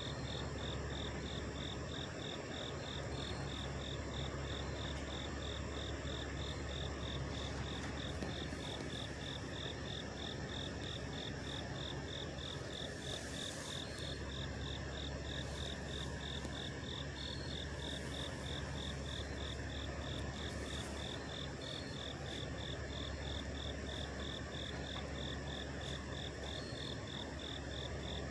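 Several truck engines idling, a steady low hum. Over it, insects chirp in a high, even pulse about two or three times a second, and a short hiss comes about halfway through.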